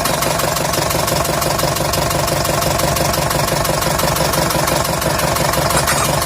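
Tata 1109 truck's common-rail diesel engine idling steadily with an even, rhythmic clatter.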